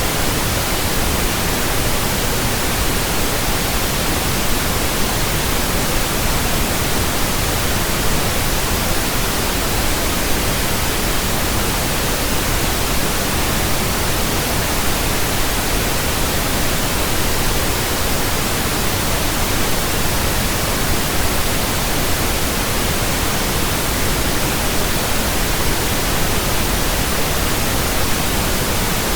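Pink noise from an electronic pink noise generator, a steady even hiss spread across the whole range from deep lows to highs, played as a burn-in signal for new speakers and earphones.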